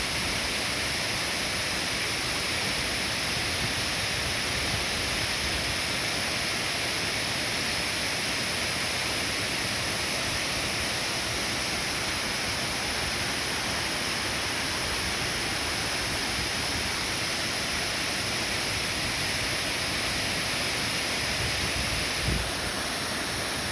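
Waterfall rushing close by: a steady, even roar of falling water and spray. A brief low thump about 22 seconds in.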